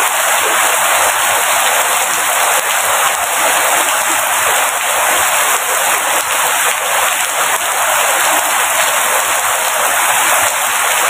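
Rain falling steadily, a dense, even hiss of countless drops with no breaks.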